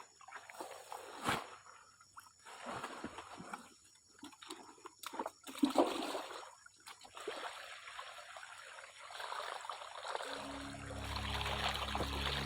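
Water splashing and trickling in irregular bursts, with a few sharp knocks. Background music comes in near the end.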